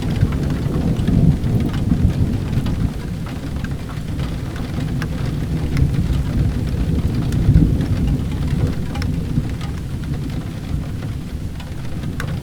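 Steady heavy rain with a low rumbling that swells twice, and scattered sharp crackles of a wood fire.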